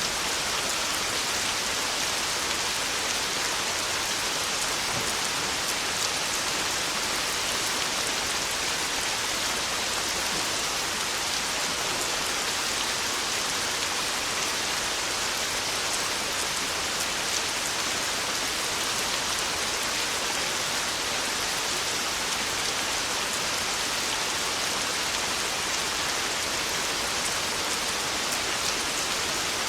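Heavy rain on a tin roof, a steady dense hiss with fine drop ticks running through it and no thunder.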